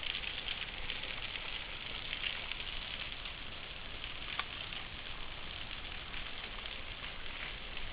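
Steady hiss of water falling and splashing at a waterfall, with a single small click about four seconds in.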